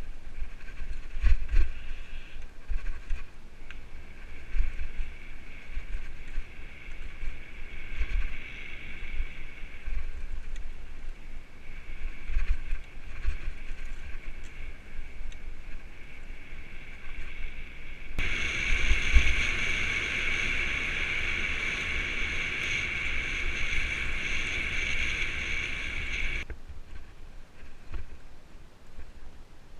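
Mountain bike rolling over a forest trail, with low rumbling and knocks from the bumps and wind on the mount. A steady high whirring comes and goes, typical of the rear freewheel hub buzzing while coasting. It is loudest and unbroken for about eight seconds past the middle, then cuts off suddenly.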